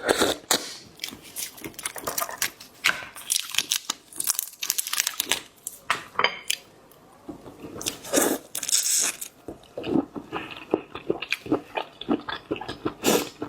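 Close-miked ASMR eating of seafood: crunchy bites and wet chewing, a rapid irregular crackle broken by a couple of brief pauses.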